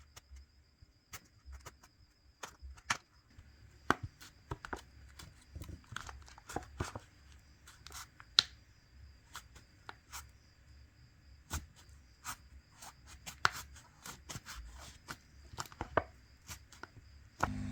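Irregular small clicks and taps of a screwdriver and tweezers working tiny screws and plastic parts on a smartphone being taken apart.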